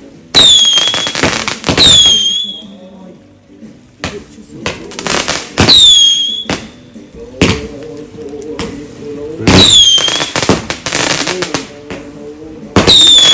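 Fireworks going off in a string of loud bangs, several of them followed by a short high whistle that falls in pitch and then holds.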